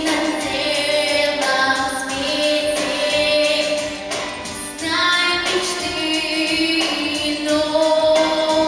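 A young girl singing a pop song over a backing track with a steady beat.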